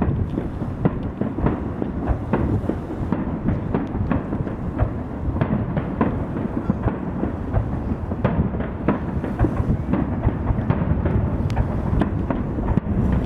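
Fireworks display: a dense, unbroken run of booms and rumbling reports with many sharp cracks overlapping one another.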